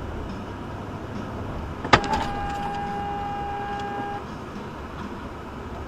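Steady road and engine noise of a moving car. About two seconds in comes a single sharp knock, followed by a steady high tone with overtones that holds for about two seconds and then stops.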